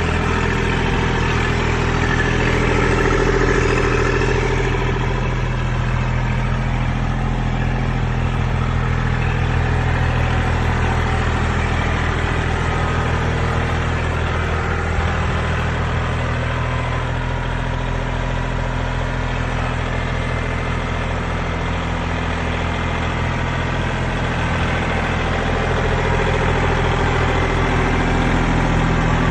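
Kubota L2501 tractor's three-cylinder diesel engine running steadily while its backhoe works, getting slightly louder a few seconds in and again near the end.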